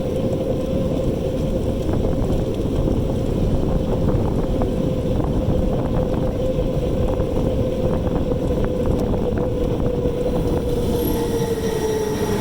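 E-bike's electric motor whining with a steady tone over heavy wind rush on the microphone; the whine falls in pitch near the end.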